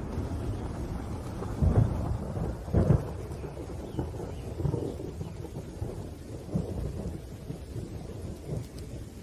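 Thunderstorm: rumbling thunder over steady rain, with two loud cracks about a second apart near the start, then lower rolling rumbles.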